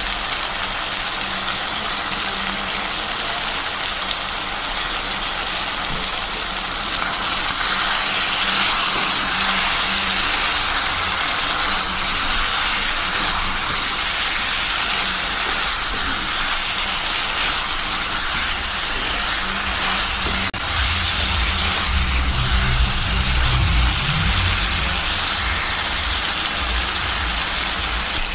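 Chicken pieces frying in thick masala in a steel kadai, a steady sizzling hiss, with a low rumble rising in about three-quarters of the way through.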